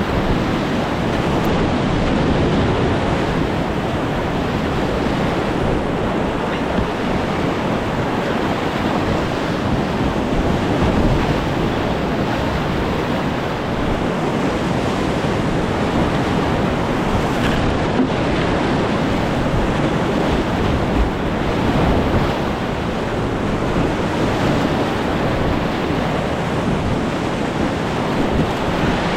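Whitewater rapids in a creek at spring runoff, a loud, steady rush of water with wind buffeting the microphone.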